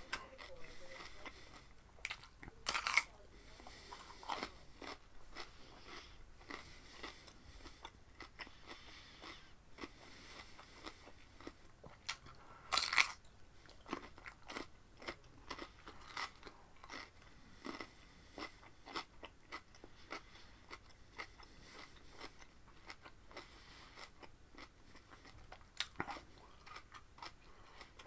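Close-up chewing and crunching of raw cucumber: a run of short, wet crunches, with louder bites about three seconds in and about halfway through.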